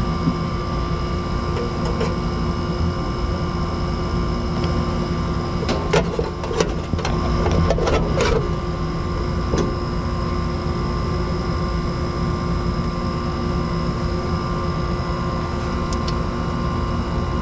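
A steady machine hum with several fixed pitches runs throughout. About six to eight seconds in comes a short cluster of clicks and light metallic clatter as capacitor wiring and slip-on connectors are handled.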